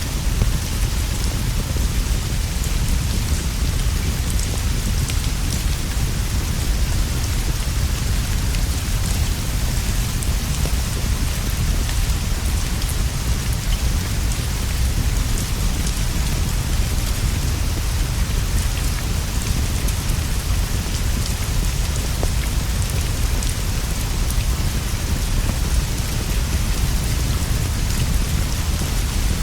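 Steady rain falling, with a deep constant rumble underneath and scattered light ticks.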